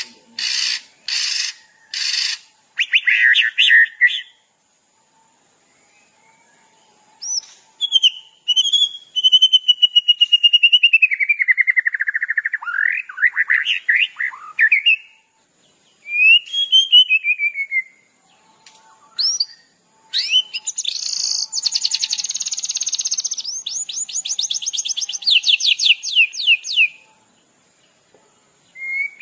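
Songbird calls and song: a run of short repeated chirps, then a pause of a few seconds, long whistled notes sliding down in pitch, quick upward sweeps, and near the end a fast, rattling trill.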